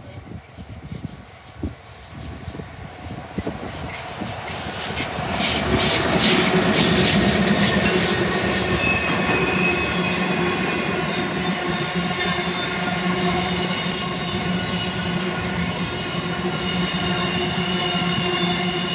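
Wheat train passing close by: its diesel-electric locomotives grow louder over the first few seconds and go by about six seconds in. A long string of grain hopper wagons then rolls past with a steady rumble and high-pitched squealing wheels.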